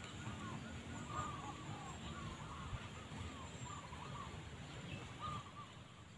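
Faint bird calls: a string of short, arching notes repeating irregularly over a low background rumble.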